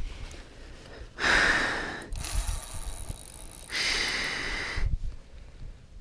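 A man breathing hard, a few long, heavy breaths with short gaps between them. He is winded and worn out from a long fight with a big fish.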